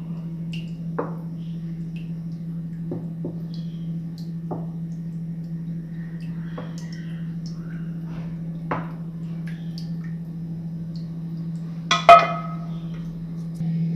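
Spoon clicking and scraping against a baking dish as pie filling is spread, with scattered light knocks over a steady low hum; about twelve seconds in, a louder ringing clink of utensil on dish.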